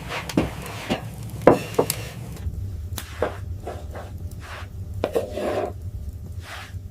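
Scattered light knocks and a stretch of rubbing or scraping, as of wood being handled, over a steady low rumble.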